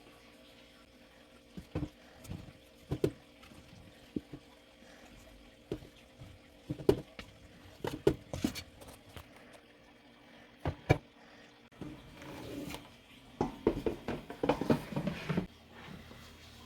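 Kitchen handling sounds while preparing starch-coated chicken drumsticks: scattered knocks and taps of bowl, utensils and food, with a busier stretch of clattering and rubbing near the end.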